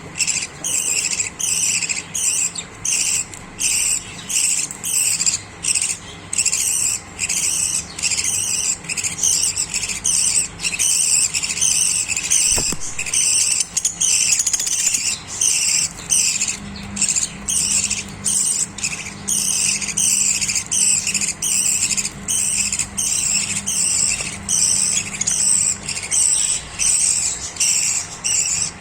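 Pet budgerigars chattering with high, twittering chirps in quick bursts, about two a second.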